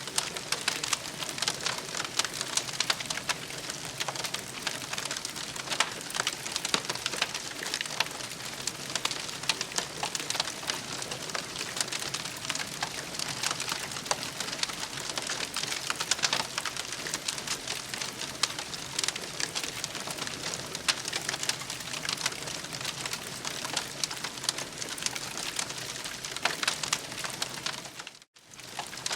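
Campfire crackling and popping steadily, a dense patter of small snaps with sharper pops scattered through it. It cuts out briefly near the end, then resumes.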